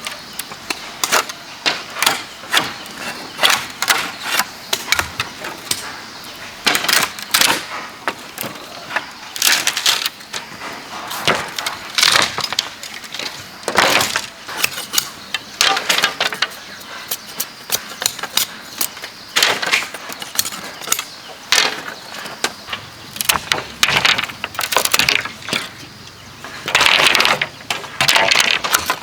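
Bamboo being worked with hand tools: irregular knocks, taps and sharp cracks as it is chopped and split, with a longer rasping burst near the end.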